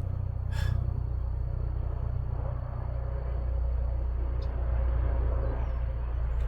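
Steady low mechanical rumble with a faint, steady high-pitched whine over it.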